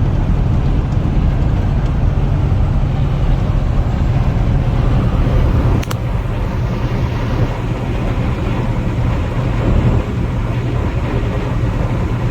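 Steady low drone of a semi truck's engine and road noise heard inside the cab while driving on the highway. A brief click comes about six seconds in, where the sound drops slightly in level.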